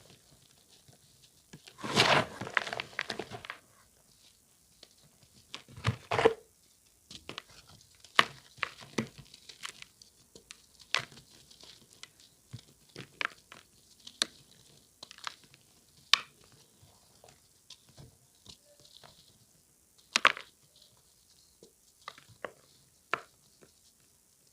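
Reformed chalk block made of charcoal powder being crushed. There is a dense crunch about two seconds in and a shorter one about six seconds in, then scattered sharp crackles and snaps as pieces break.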